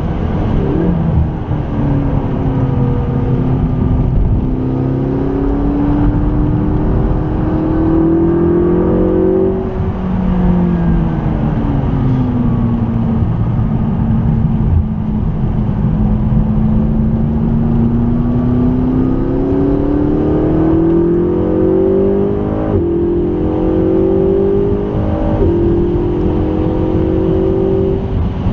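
McLaren 650S twin-turbo V8 pulling hard through the gears, its pitch climbing, dropping away and climbing again, with two quick upshifts near the end. A steady rush of tyre and road noise from the wet track runs underneath.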